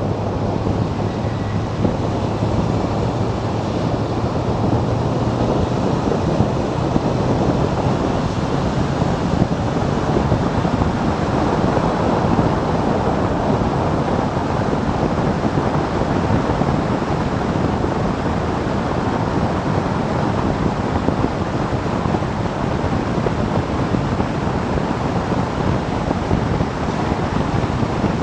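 Steady wind rush buffeting the microphone of a camera on a motorcycle moving at speed. The motorcycle engine's low hum shows faintly under it for the first few seconds, then fades into the wind.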